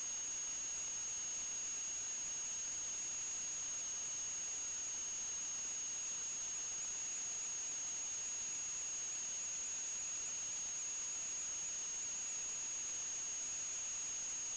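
Steady electronic hiss with a constant high-pitched whine and a fainter, lower tone beneath it, unchanging throughout: noise from the recording equipment rather than any sound picked up from the scene.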